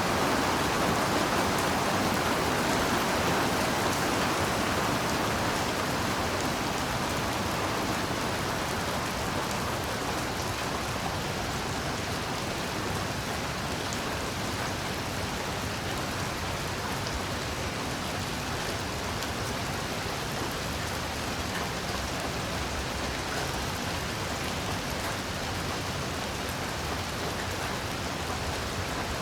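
Heavy rain falling steadily, a dense hiss of many drops, growing a little softer over the first several seconds and then holding even.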